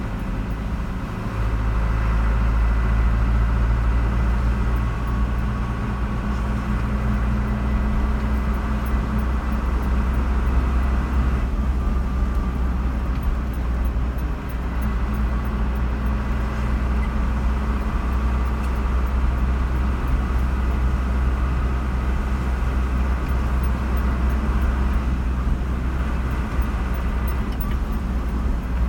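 Car driving along a road: steady engine and tyre noise with a heavy low rumble.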